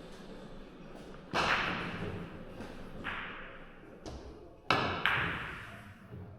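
Carom billiard balls clacking during a shot: a loud sharp clack about a second in, a smaller one midway, then two loud clacks in quick succession near the end, each fading away with the sound of the balls rolling.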